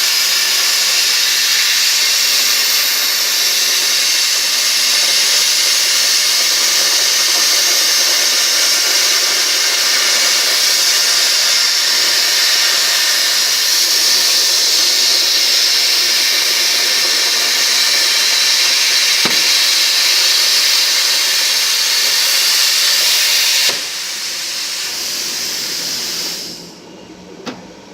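A 100-amp plasma cutter's arc cutting on a CNC table, a loud steady hiss. Near the end it drops to a quieter hiss for a few seconds, then stops.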